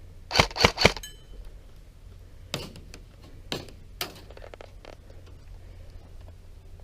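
Airsoft gun firing three quick shots in a row, followed by a brief ringing, then three fainter sharp cracks over the next couple of seconds.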